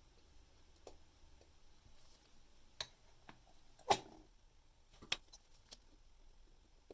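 Faint, scattered clicks and taps of watchmaking tools on a watch movement and the bench, with one louder tap about four seconds in.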